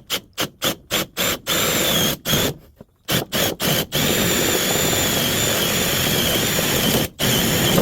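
Power drill boring a 1-inch hole into a 2x6 board, run with a rusty bit. It starts in a quick series of short trigger bursts, then settles into a long steady run with a high whine that briefly drops out near the end.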